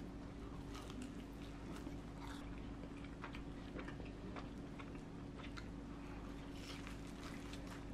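Close-miked chewing and biting of a seed-filled hotteok, a Korean sweet pancake with brown-sugar syrup and nuts inside: a run of small, irregular mouth clicks and smacks.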